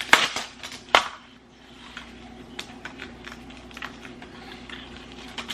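Ice cubes clinking in a glass: two sharp clinks about a second apart, then lighter scattered ticks.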